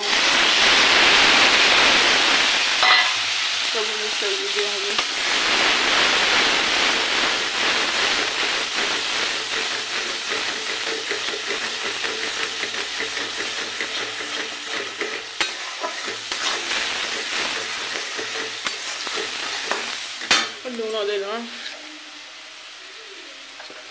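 Spice paste hitting hot oil in a kadai sizzles loudly at once, then the frying hiss eases off gradually as it is stirred, with a couple of sharp knocks against the pan.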